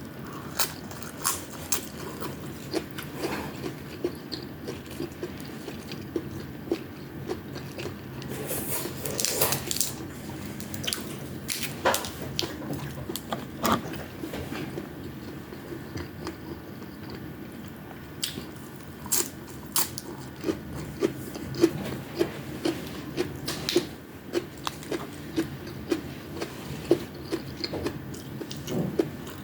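Close-miked eating of fried tamban fish and rice: chewing and biting with wet mouth sounds and many short, sharp smacks and clicks, and a denser crackly stretch of crunching about nine seconds in.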